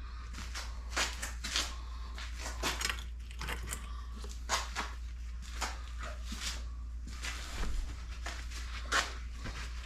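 Scattered light clicks, knocks and rubbing from engine parts being handled and wiped on a workbench, over a steady low hum.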